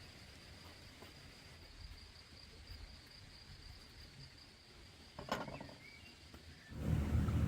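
Quiet outdoor ambience with a steady high-pitched insect trill, typical of a cricket. A short sharp sound comes about five seconds in, and a louder low noise sets in near the end.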